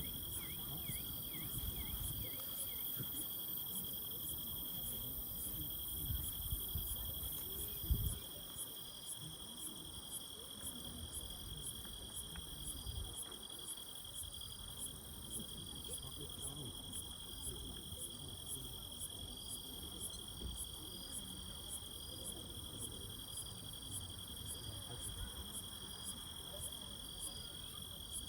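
Night insects chirping in a steady, even chorus of high-pitched trilling, with a faint low rumble beneath. A single low thump about eight seconds in.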